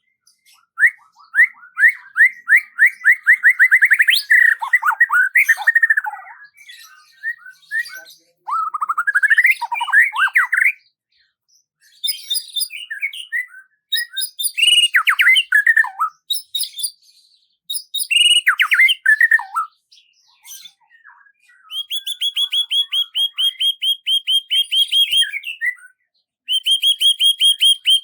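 Songbird singing in varied phrases of rapid trills and sweeping whistled notes, separated by short pauses, with a long, fast, even trill near the end.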